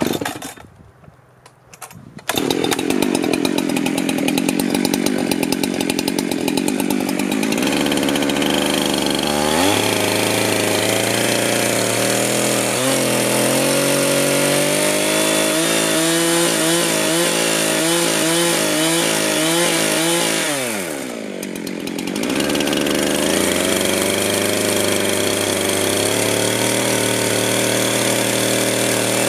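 Small two-stroke chainsaw engine starts running about two seconds in, then revs up. Its pitch wavers rapidly under changing throttle, drops briefly to a low idle a little past the two-thirds mark, and comes back up.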